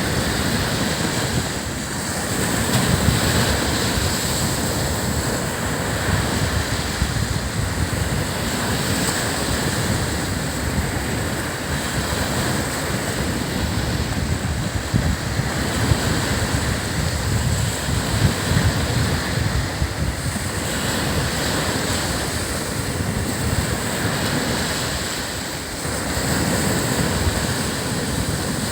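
Ocean waves breaking and washing up a sandy beach in a steady, continuous rush, with wind buffeting the microphone.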